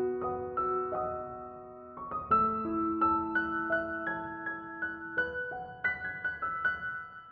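Soft background piano music, slow single notes and chords ringing out, fading away near the end.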